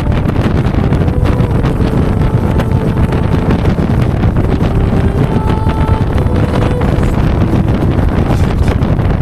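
Strong gale-force wind buffeting the microphone: a steady, loud low rumble, with a few faint whistling notes that come and go.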